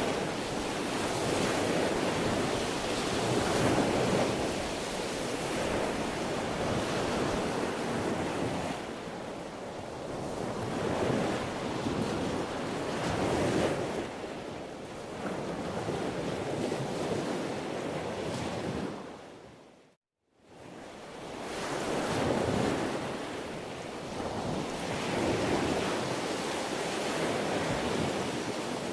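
Sea waves breaking and washing on a shore, the rush of water swelling and ebbing every few seconds. About two-thirds of the way through the sound fades briefly to silence and then swells back.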